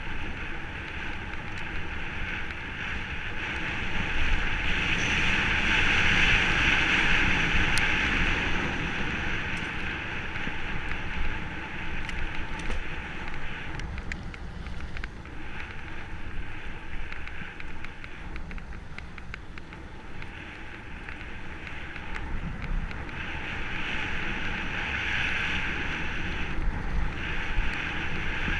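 Mountain bike descending a dirt forest trail: wind buffeting the microphone over the hiss and rumble of knobby tyres on the ground, swelling twice as the speed picks up, with scattered rattles and knocks from the bike over rough ground.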